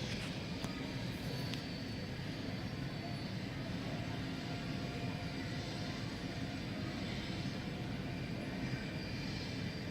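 Jet airliner's engines running at a steady low idle while it taxis in to the gate, a constant rumbling hum with a faint high whine.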